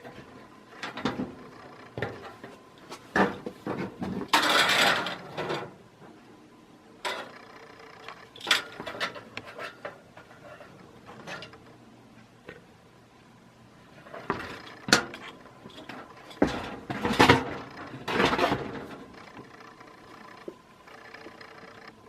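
Handling noise from a vintage box fan with a metal frame and plastic blades and cage: irregular knocks and clicks, with a couple of longer scraping, rustling stretches.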